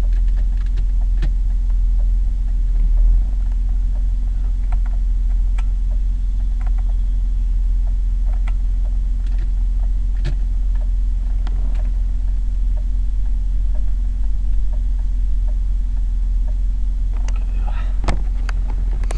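BMW E34 520i's inline-six engine idling steadily at about 850 rpm, just after a cold start; the sound is low and steady, with a few faint clicks over it.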